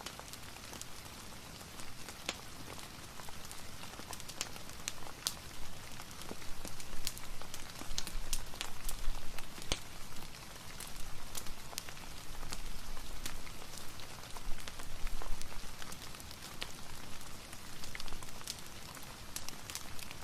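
Ambience of steady rain mixed with a crackling wood fire: an even hiss of rainfall with frequent sharp, irregular pops and crackles.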